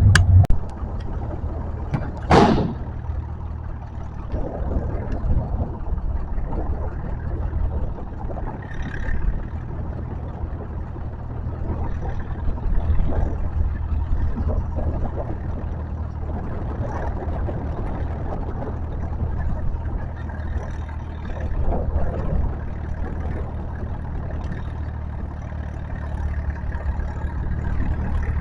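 Tractor engine running steadily with a low hum, with a short hissing burst about two seconds in.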